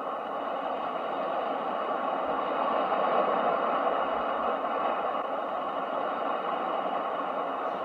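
Ocean waves: a steady rush of surf that swells to a peak about three seconds in and then slowly eases back.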